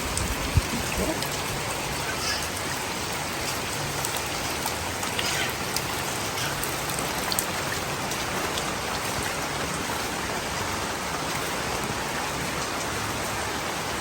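Steady rain falling, with a few scattered drop ticks.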